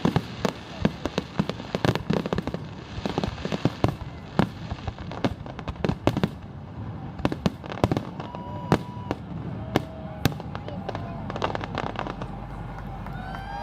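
Aerial fireworks going off in quick succession, a dense run of sharp bangs and crackles that thins out to scattered bangs in the last few seconds.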